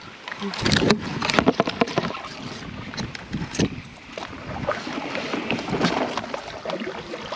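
Paddling an inflatable canoe: a paddle splashing in the water, with a run of sharp knocks about a second in.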